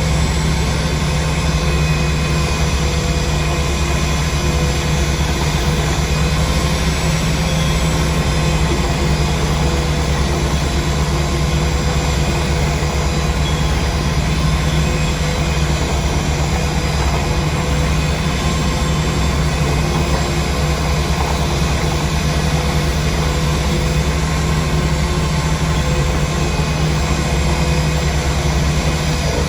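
A heavy engine of the dredging equipment running steadily and without a break, a constant low drone.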